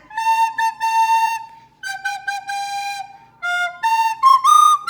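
A recorder playing a simple melody: a run of separate steady notes, some short and some held, with brief breaks between them.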